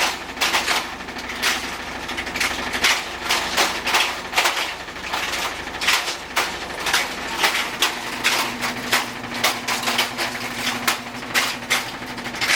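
Faulty washing machine running with a repeated irregular knocking and clattering, two or three knocks a second; a steady hum joins in about eight seconds in. The knocking is the sign of damage in the machine.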